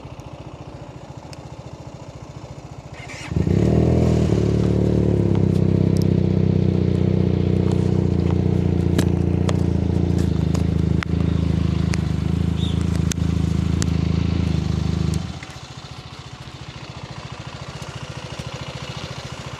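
QJ Motor SRK 400's parallel-twin engine idling through its exhaust. About three seconds in, it is revved up quickly and held at a steady higher speed for about twelve seconds, louder, then it drops back to idle.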